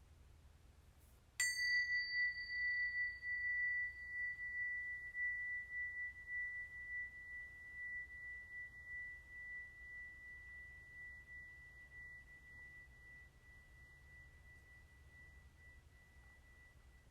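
A small metal chime struck once about a second and a half in, ringing a single high tone that wavers slightly as it fades slowly; its brighter overtones die away within a few seconds.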